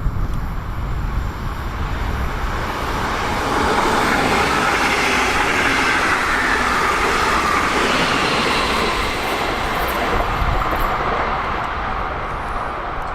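A train passing, its running noise swelling about three seconds in, holding with a slowly falling pitch, and easing off near the end.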